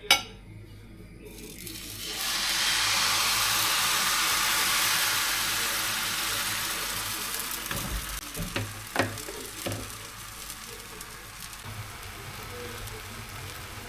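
Hot frying pan sizzling as a thin pancake (blin) cooks with butter: a sharp clink at the start, then a loud sizzle from about two seconds in that slowly dies down, with a few light knocks of utensils around the middle.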